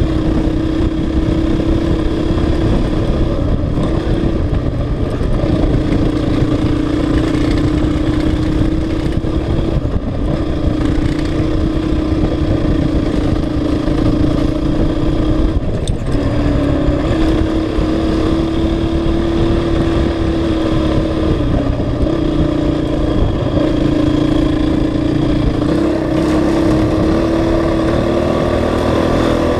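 Honda CRF450X's single-cylinder four-stroke engine running at a fairly steady pace under riding load on a dirt road, its note dipping and shifting briefly every five or six seconds as the throttle is eased or gears change, over a steady low rushing noise.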